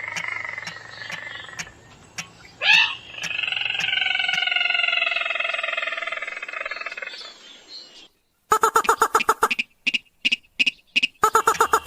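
Recorded lure calls of a rail (sintar / mandar padi): long drawn-out, slightly falling calls with a brief sharp upward squeal about three seconds in. After a short break near eight seconds comes a fast run of short, choppy notes.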